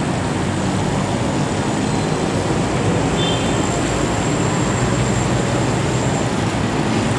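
Liver (kaleji) with tomatoes sizzling steadily in oil on a large, hot flat tawa, over a low steady rumble.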